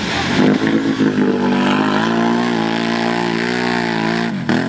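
ATV engine running hard under load, its revs wavering up and down, with a brief drop in revs near the end.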